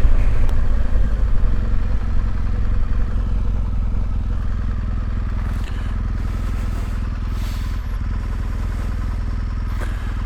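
BMW R1200GS Adventure's flat-twin engine running steadily while the tyres splash and crunch through a shallow water crossing on gravel, loudest over the first two seconds, then settling to steady engine and tyre noise.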